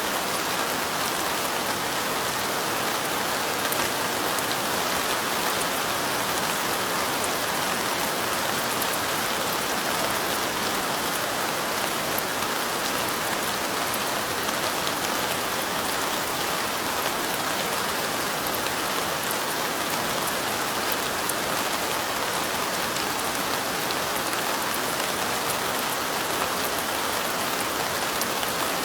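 Steady light rain falling, a dense even patter of drops pattering on surfaces.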